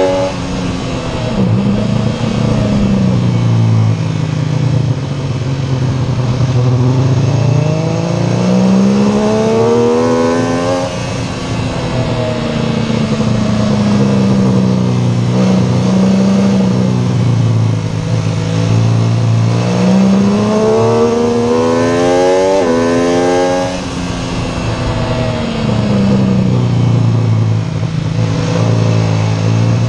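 MV Agusta F3 675's inline three-cylinder engine heard onboard at speed, over steady wind rush. Its pitch climbs hard under acceleration twice and drops off sharply each time, about 11 seconds and about 22 seconds in. Between and after the climbs it falls away and runs steadier through the corners.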